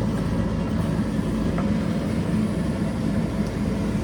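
JCB backhoe loader's diesel engine running steadily under work, with a few faint ticks.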